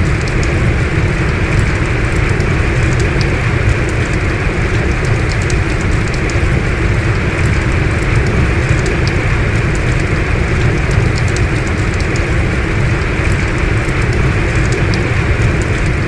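Heavy rain falling steadily, a dense even hiss with a deep rumble beneath and fine drop ticks scattered through it.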